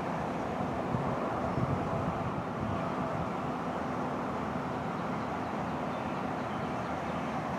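Heavy demolition machinery's diesel engine running steadily, a low even drone with no crashes or impacts.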